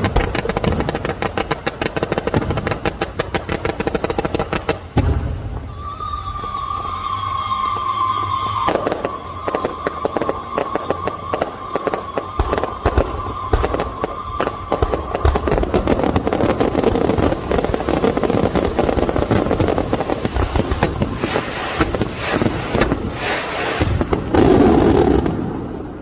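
Fireworks going off: dense rapid crackling and bangs, with a long steady whistle running for several seconds from about six seconds in. A loud final burst comes near the end, then the noise stops.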